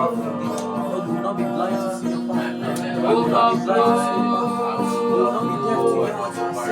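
Slow worship music: guitar lines played over a held keyboard chord, with some singing.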